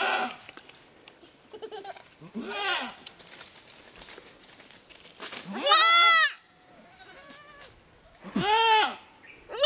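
Goats bleating repeatedly: several separate quavering calls, the loudest about halfway through and near the end, with fainter ones in between.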